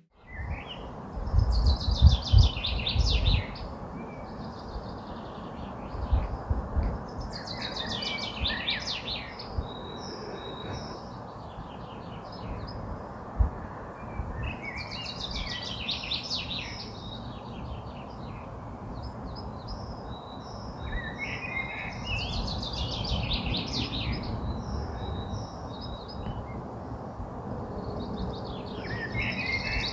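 A songbird singing the same rapid, trilled phrase about every seven seconds, each phrase lasting two to three seconds, over a steady outdoor rush. A few low thumps come near the start.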